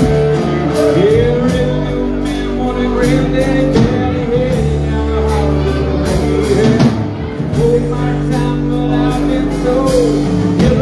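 A live rock band playing a song at full volume: steady drum hits over sustained bass and guitar, with a bending melody line on top.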